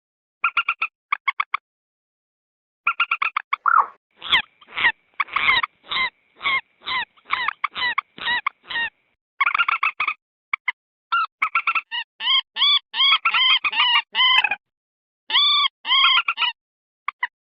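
Common moorhen calling: short groups of quick clicky notes, then a run of about ten loud harsh notes at roughly two a second, then a fast chattering series of ringing notes. The phrases are separated by dead-silent gaps, as in an edited lure-call recording.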